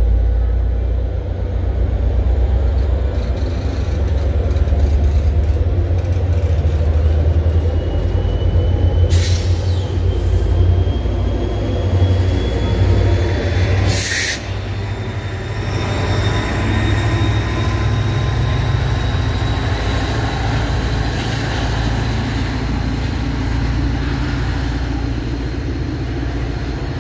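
Commuter train of stainless-steel Comet coaches passing close by, its wheels making a steady, loud rumble on the rails, with faint thin squealing tones rising slowly in pitch. Two short hissing bursts come about nine and fourteen seconds in, and the rumble eases a little in the second half as the train pulls away.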